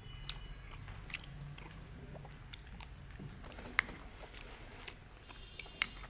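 People eating momos (dumplings), biting and chewing, with scattered small mouth clicks throughout and two sharper clicks, one just past the middle and one near the end.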